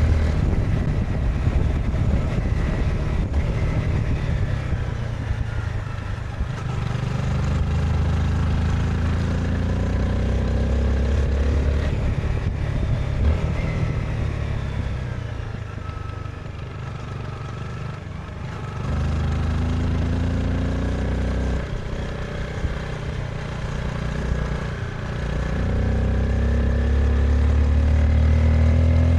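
Honda CBR 250R's single-cylinder 250cc engine and exhaust under way, pitch rising and falling with throttle and gear changes. It drops back and quietens for a few seconds past the middle, then pulls again.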